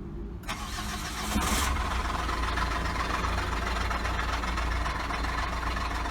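Tracker SUV engine running at idle, suddenly much louder about half a second in, with a steady rattling, knocking noise from the accessory-belt drive. It is later traced to a worn ribbed-belt pulley and idler pulley.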